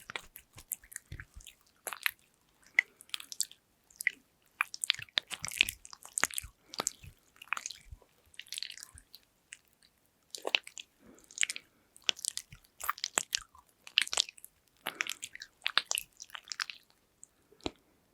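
Hands rubbing and pressing soothing gel, making irregular sticky, crackly clicks and short squishes.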